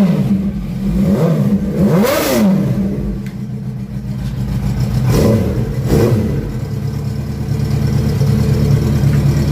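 Yamaha R1 inline-four engine idling and blipped several times, each rev rising and dropping back quickly, the biggest about two seconds in, then settling to a steady idle for the last few seconds. It is being run up to test the electronic fuel injection and engine.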